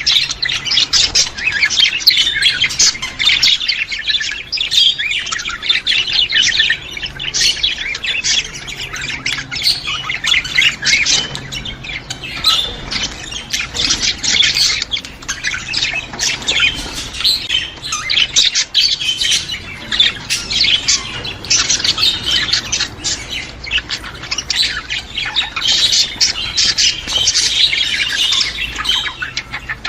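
A group of budgerigars chattering and squawking, with dense overlapping chirps and warbles that never let up.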